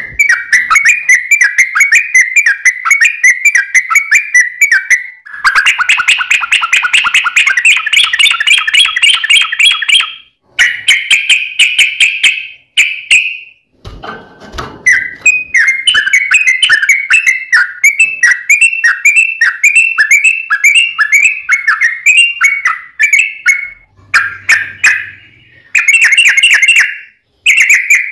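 Yellow-vented bulbul (trucukan) singing long, rapid runs of chattering notes that stay around one pitch, in several phrases broken by short pauses.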